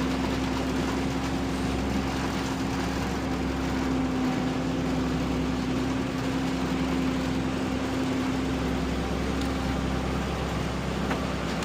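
Truck engine running steadily, a constant drone with an even hum.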